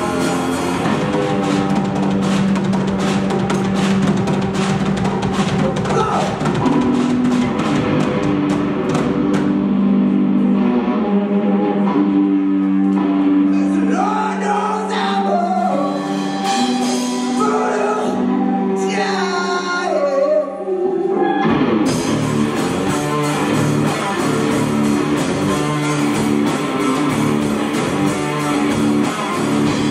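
Live rock band playing with electric guitar and drum kit. About halfway through, the bass and drums drop back and bending guitar lines ring over a held low note. The full band comes back in about 22 seconds in.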